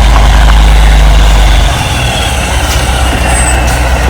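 Tow truck's engine working hard to rock a stuck pickup whose tire is locked up, easing off about two seconds in and running on more quietly.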